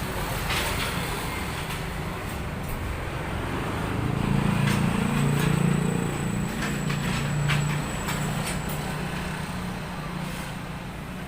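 A low motor drone that swells about four seconds in and eases again, with scattered clicks and knocks.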